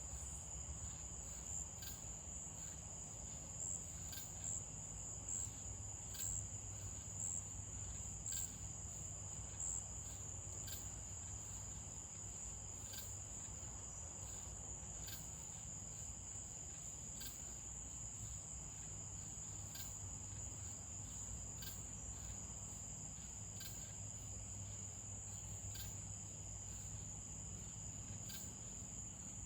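Night insects, crickets, trilling in a steady high-pitched chorus, with short ticks about once a second. A low steady rumble sits underneath.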